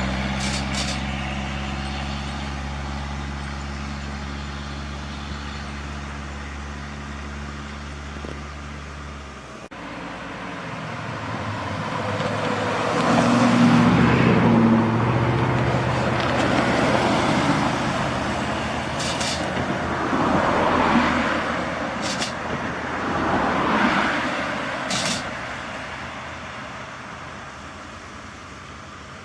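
A truck engine idling steadily, cut off abruptly about ten seconds in; then several trucks drive past one after another, their engine noise swelling and fading, with a few short sharp sounds in between.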